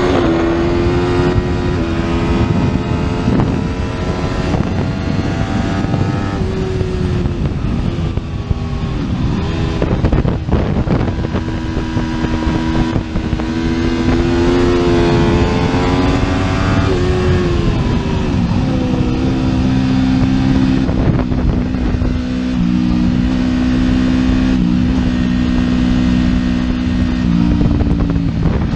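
Sport motorcycle engine running at high revs, its pitch holding steady for stretches and stepping or bending up and down several times, with noise underneath.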